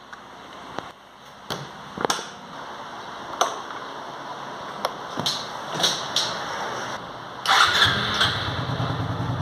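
A few scattered clicks and knocks, then about seven and a half seconds in a Honda Biz's small single-cylinder four-stroke engine starts and settles into a steady idle, running on gasoline with a little diesel mixed in.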